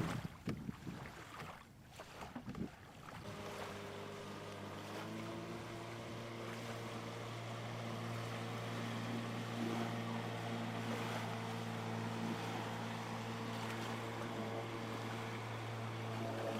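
Small outboard motor on a dinghy: a few knocks, then about three seconds in the motor comes in and runs at a steady speed, with wind and water noise.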